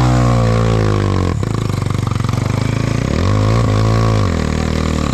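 Trail motorcycle engine revving hard at high revs. The pitch dips briefly about a second and a half in, then climbs and falls again near the end.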